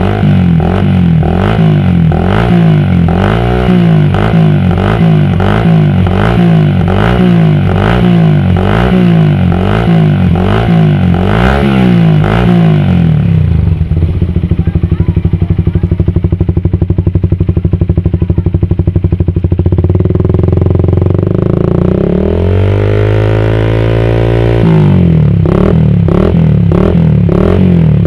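Suzuki Satria FU's 150 cc single-cylinder four-stroke engine through an aftermarket racing exhaust, revved in quick repeated blips for the first dozen seconds. It then settles to a steadier idle, swells in one long rising rev about two-thirds of the way through, and goes back to rapid blipping near the end.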